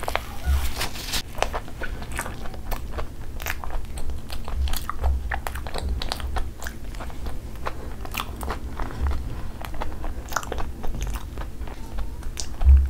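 Chewing a mouthful of fried, breadcrumb-coated potato cheese ball close to the microphone: a steady run of irregular crunchy clicks and crackles from the crisp coating, with soft low thuds.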